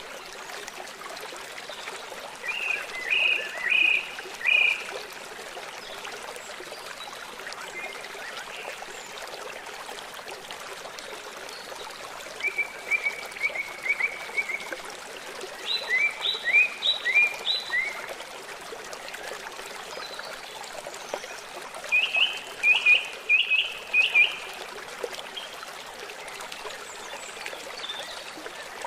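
A stream running steadily, with a songbird singing several short phrases of quick repeated notes over it.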